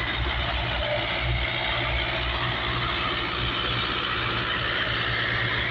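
Tractor engine running steadily with a low, even throb.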